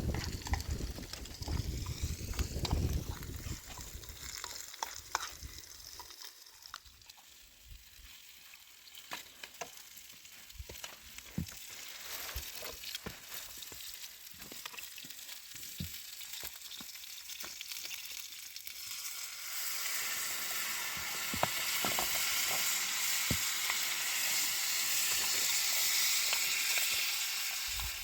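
Food sizzling in hot oil in a pan, with scattered crackling pops. The sizzle swells into a loud steady hiss about twenty seconds in.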